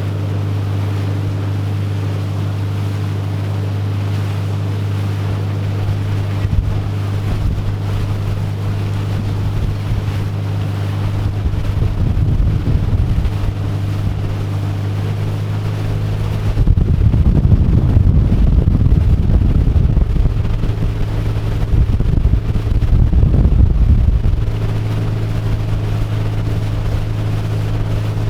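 Motorboat engine running at a steady drone while towing a water skier. Wind buffets the microphone, in rougher gusts now and then and most strongly through the second half.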